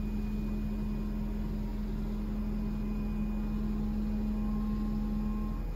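Steady hum and rumble inside an electric commuter train car, with a steady low tone that cuts off near the end.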